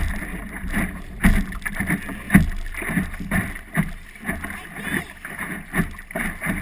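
Water slapping and splashing against the hull of a small Optimist sailing dinghy in uneven knocks, with wind rumbling on the microphone.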